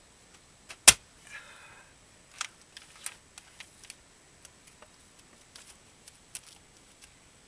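An axe blow striking a dried larch log about a second in, with a short ringing after it. Lighter knocks and clatter follow, two of them stronger, about two and a half and three seconds in.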